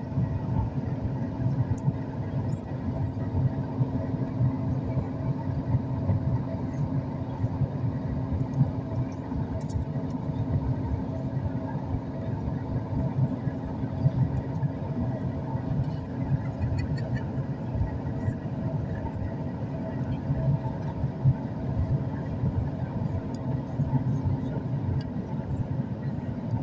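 Steady cabin rumble of a Boeing 737 MAX 8 airliner in flight on approach, made up of engine and airflow noise with a few constant hums over it.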